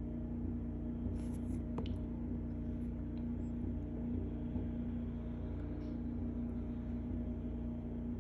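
Snowblower engine running steadily at a constant speed, with a few faint clicks about one to two seconds in.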